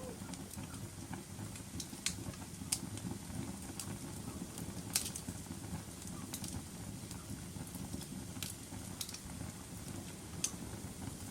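Wood fire crackling in a fireplace: a steady low noise of burning with scattered sharp pops, about half a dozen, the loudest about five seconds in.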